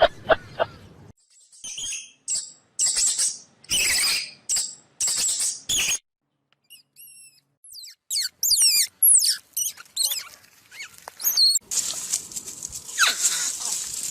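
A run of rapid clicks, then a string of short, high-pitched animal squeaks and chirps in separate bursts with quick up-and-down glides, and a dense high chattering near the end.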